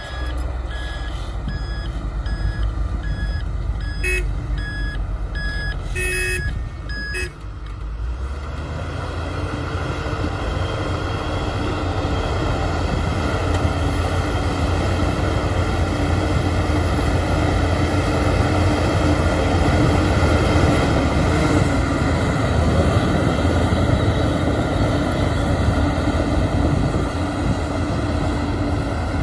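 Shantui bulldozer's diesel engine running, with its reversing alarm beeping at an even pace. The beeping stops after about seven seconds, and the engine then grows steadily louder as it works.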